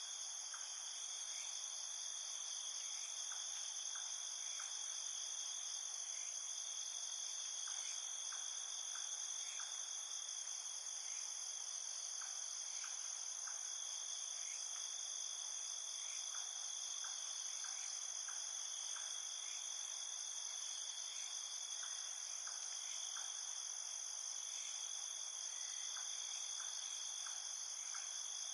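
Night chorus of field crickets: a steady, unbroken high-pitched chirping, with faint scattered ticks beneath it.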